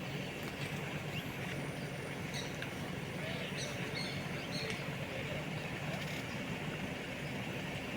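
A motor running with a steady low hum, with a few short high bird-like chirps in the middle, over a constant high hiss.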